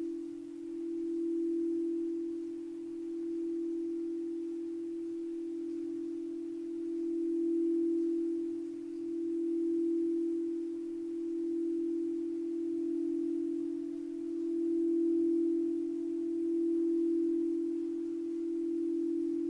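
A singing bowl sustaining one steady low tone that swells and fades every couple of seconds, with a fainter higher overtone coming in about two-thirds of the way through.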